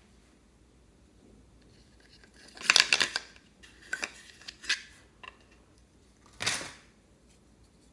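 Slime being squeezed and worked by hand, giving short bursts of crackly clicks and pops, the longest about three seconds in and another near the end.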